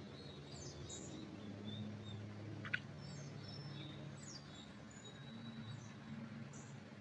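Songbirds calling: short high chirps and whistles scattered throughout, with one sharp louder call about two and a half seconds in, over a faint steady low hum.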